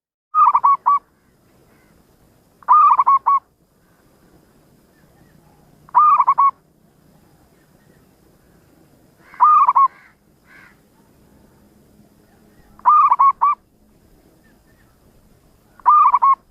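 Zebra dove (perkutut) cooing: six short phrases, one about every three seconds, each a quick run of three or four rolling notes.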